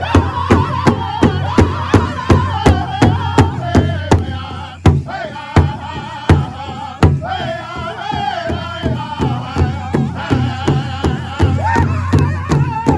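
Powwow drum group: a big drum struck in a steady beat of about three strokes a second, with several singers chanting high-pitched in unison.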